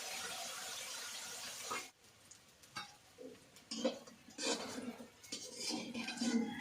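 A steady cooking hiss that stops abruptly about two seconds in, followed by scattered clinks and knocks of pots and utensils being handled.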